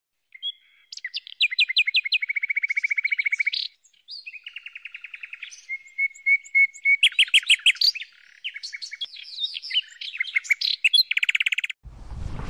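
A songbird singing a long, varied song of fast, high trills and chirps, with short breaks about four and eight seconds in. It is cut off near the end by a rushing noise.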